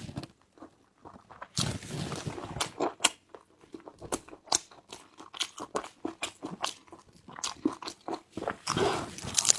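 Close-miked eating: bites and crunchy chewing of food, with many irregular sharp crunches and mouth clicks beginning after a quiet first second and a half.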